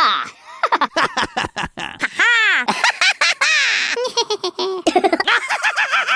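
The cartoon worm laugh from the Worms video games: a sped-up, squeaky voice cackling in quick bursts that rise and fall in pitch.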